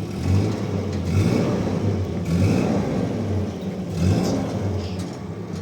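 Car engine running, its revs rising and falling unevenly.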